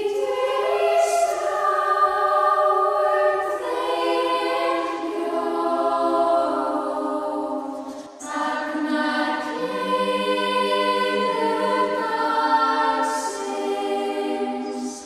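Choir singing sustained chords in two long phrases, the second beginning about eight seconds in, with no beat or bass under it.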